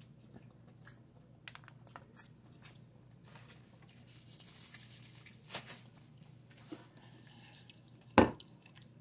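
Close-up chewing of a mouthful of crispy chicken sandwich, with faint crunches and mouth clicks over a low steady hum. A single sharp knock near the end is the loudest sound.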